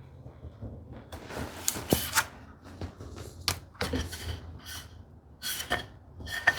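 Pencil scratching out a light layout line on a wooden board, in several short strokes, with a few sharp clicks and light knocks of hand tools being handled.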